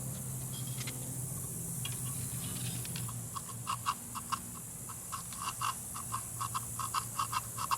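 Distributor breaker points being sanded by hand: from about three seconds in, quick back-and-forth strokes, each a short squeak of abrasive on metal, three or four a second, cleaning the dirty contacts of the Farmall Super A's distributor, which has no spark.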